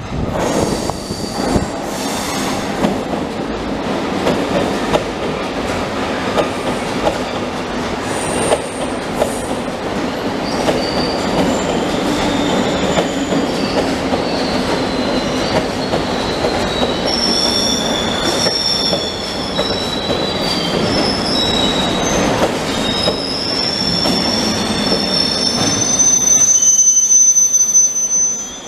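Suburban electric train pulling in alongside a platform: a steady rumble of wheels on the rails, with high-pitched wheel and brake squeals starting about halfway through as it slows. A loud held squeal comes near the end, then the sound drops away as the train stops.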